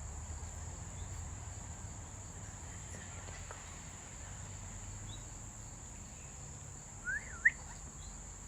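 Steady high-pitched insect chorus, crickets or cicadas, with a low background rumble. About seven seconds in, a bird gives a short whistled call that rises and falls twice.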